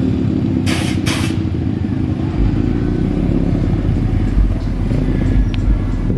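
A vehicle engine running with a loud, steady low rumble, with two short sharp hisses about a second in.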